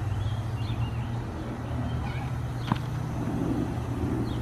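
Steady low rumble of nearby road traffic with faint bird chirps over it, and one sharp click a little past halfway.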